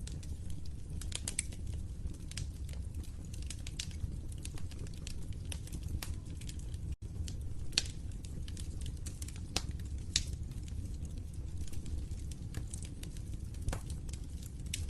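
Wood fire in a fireplace crackling, with irregular sharp pops over a low steady rumble of the flames. The sound cuts out for a split second about seven seconds in.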